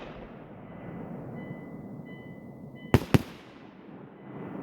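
Fireworks going off: a fading rumble from earlier bursts, then two sharp bangs a fraction of a second apart about three seconds in.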